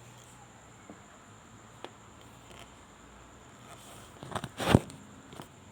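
Faint room tone with a couple of small clicks, then a quick run of knocks and clatter near the end, as of objects being handled.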